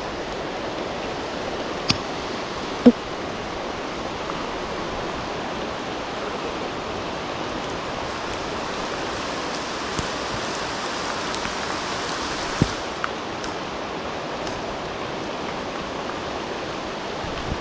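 Heavy rain pouring down in a steady hiss, with a few sharp ticks standing out, once about two seconds in, again about three seconds in and once near thirteen seconds.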